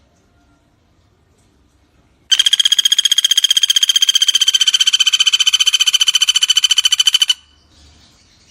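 Pelatuk bawang (common flameback woodpecker) giving one long rapid rattling trill of about five seconds, about a dozen notes a second at an even high pitch, starting about two seconds in and cutting off sharply. Faint chirps of other birds come before and after it.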